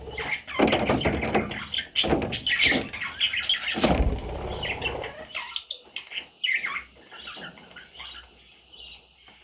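Budgerigar chicks chirping and scuffling about, loud and busy for the first half with a thump about four seconds in, then thinning to softer, separate high chirps.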